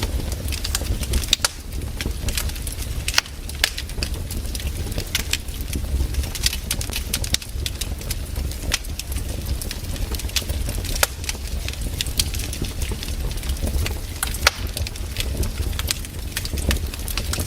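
Wood campfire crackling, with irregular sharp pops and snaps, a few louder than the rest, over a steady low rumble.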